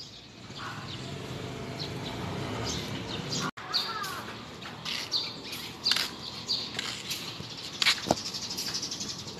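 Birds chirping in short, high, repeated calls, with a single sharp click about eight seconds in.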